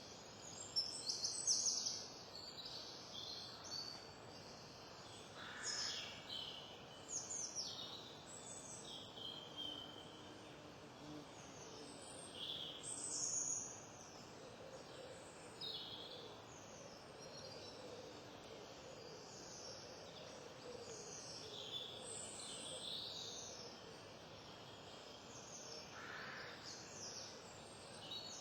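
Small songbirds chirping and singing: many short, high calls and warbles scattered throughout, over a steady background hiss.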